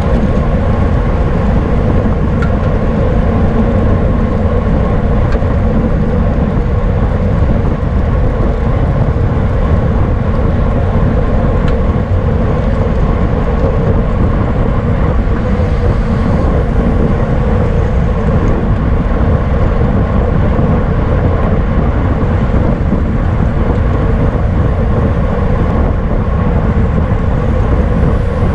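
Steady, loud wind rush over the microphone of a camera riding along in a bicycle race, with no letup.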